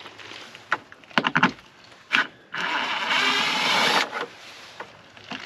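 A few sharp knocks, then a rough scraping rub lasting about a second and a half, as a diesel heater is worked loose and pulled up through the van floor.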